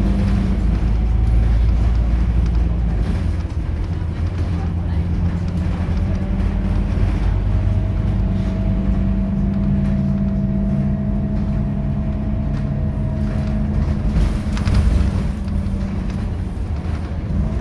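Scania K230UB bus's diesel engine and drivetrain running, a heavy low rumble with a steady whine that rises slowly and then falls away over several seconds, and a brief knock about fifteen seconds in.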